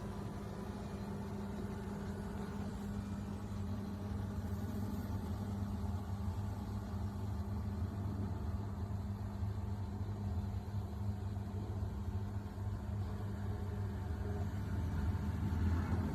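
A steady low engine hum, as of a vehicle idling, rising slightly in level towards the end.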